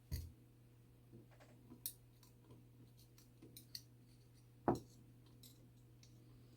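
Light clicks and taps of a clock movement's brass plate and wheels being handled as it is taken apart. There is a sharp knock at the start and a louder one about three-quarters through, over a faint steady hum.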